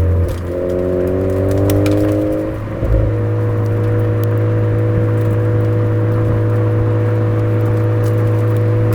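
Suzuki Swift Sport ZC33S 1.4-litre turbo four-cylinder running through a Fujitsubo aftermarket exhaust. The engine note rises in pitch for about two seconds, breaks briefly about three seconds in, then holds a steady drone at constant revs.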